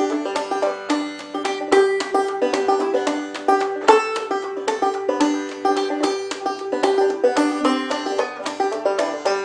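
Background banjo music: fast plucked bluegrass-style picking over a steady held note.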